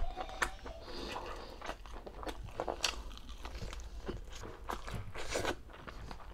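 A person eating braised pork belly with rice: chewing with irregular mouth smacks and clicks.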